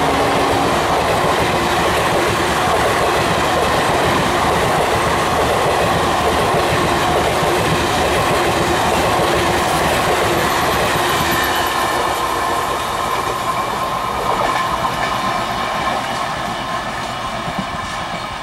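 Passenger train coaches rolling past at speed, wheels clattering over the rail joints in a loud, steady rush. A held tone cuts off just after the start, and the rush gradually fades over the last several seconds as the train moves away.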